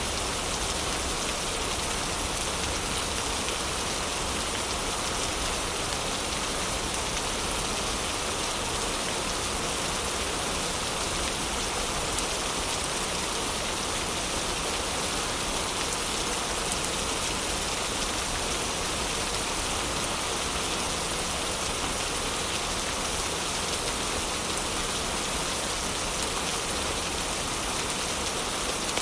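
Heavy rain falling steadily, a dense, even hiss of rain on a surface with no let-up.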